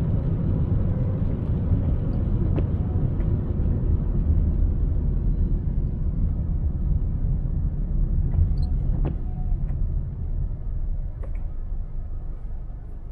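Car driving on city roads: a steady low rumble of road and engine noise with a few faint ticks. It eases off slightly near the end.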